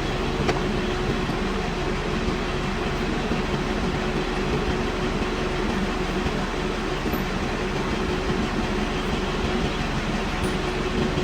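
Metal lathe running steadily during pulley machining: a continuous mechanical rumble with a steady hum through it.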